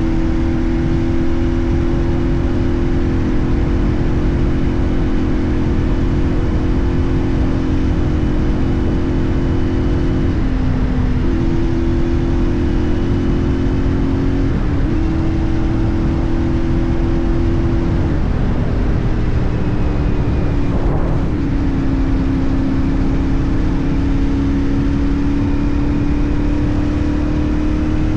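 CFMoto 450NK parallel-twin engine running at a steady cruise, with wind and road rumble. Its note dips briefly three times, about ten, fifteen and eighteen seconds in, then climbs slowly toward the end.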